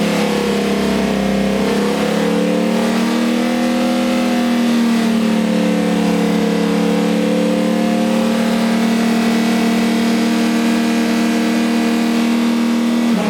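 Chevy C10 engine running loud at a high, steady speed during its camshaft break-in run, the note dipping slightly about four seconds in, then beginning to wind down at the very end as it is shut off.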